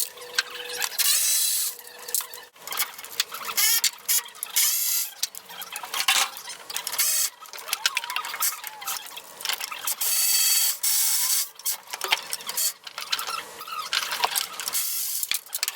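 Hand tools working on metal parts: irregular bursts of rasping, scraping and rapid clicking, like a ratchet wrench turning and parts being worked loose.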